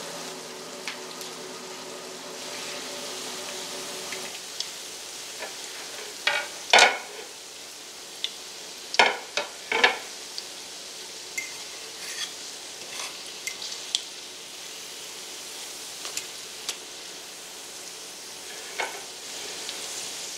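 Tuna patties frying in hot grease in a cast iron skillet, a steady sizzle throughout. A fork clinks sharply against the skillet a few times, loudest about seven and ten seconds in. A faint steady hum stops about four seconds in.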